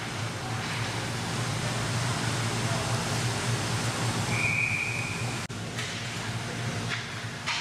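Referee's whistle blown once, a single steady high note lasting about a second, over the steady hum and background noise of an ice rink.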